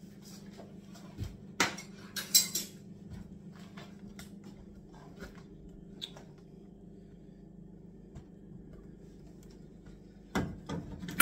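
Scattered clinks and clatters of hard objects being handled and set down during kitchen dismantling, the loudest a short rattle about two seconds in and a few more knocks near the end, over a faint steady hum.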